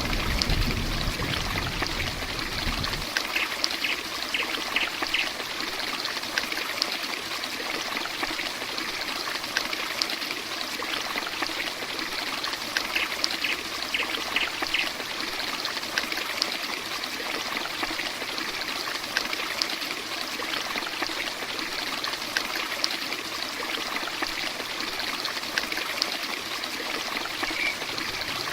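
Heavy rain falling steadily, a dense even hiss with many small drop ticks. A low rumble underneath stops about three seconds in, and two brief runs of quick, high chirps come through the rain.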